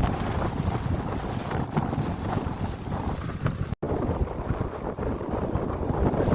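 Wind blowing across the microphone aboard a moving yacht: a steady rushing noise, heaviest in the low end. It breaks off for a split second a little past halfway.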